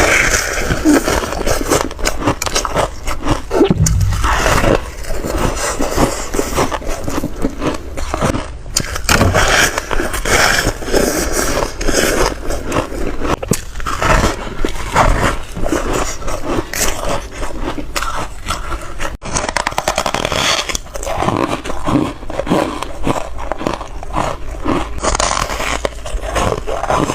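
Foam ice being bitten and crunched in rapid succession: a continuous run of crisp, crackling crunches with no pause.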